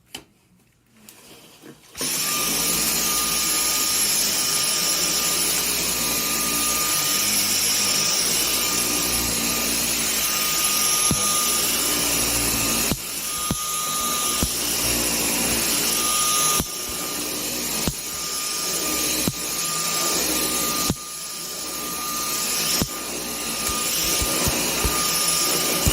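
Dyson vacuum cleaner switched on about two seconds in and running steadily with a high whine while it picks up flour spilt on a rug. Its level drops suddenly three times and climbs back up.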